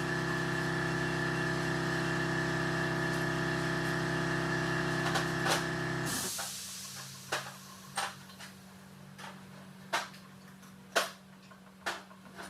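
A steady machine drone that cuts off abruptly about six seconds in, followed by a few scattered sharp clicks and knocks.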